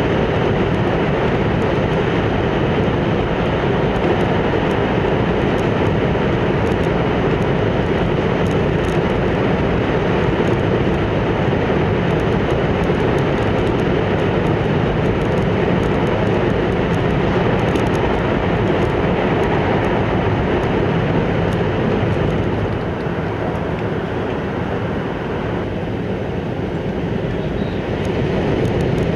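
Shinkansen train running at speed, heard from inside the passenger car: a steady rumble of wheels on rail and rushing air. It eases off slightly about three-quarters of the way through, then comes back up near the end.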